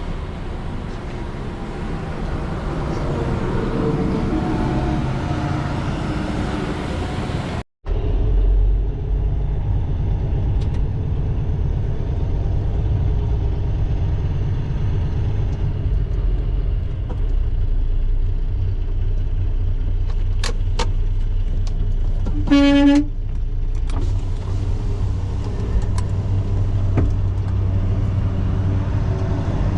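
Truck engine running with a steady low rumble, joined about three-quarters of the way through by a single short horn toot. Before the rumble there are several seconds of mixed vehicle noise that ends in an abrupt cut.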